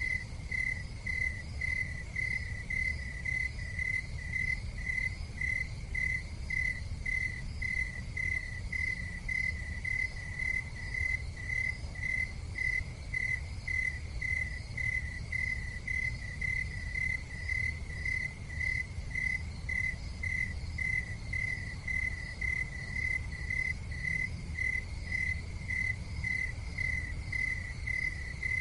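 Cricket chirping steadily in an even rhythm, about two short chirps a second, over a low steady rumble.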